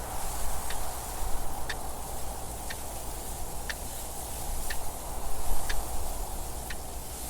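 A clock ticking steadily, one tick a second, over a continuous rush of wind that swells twice.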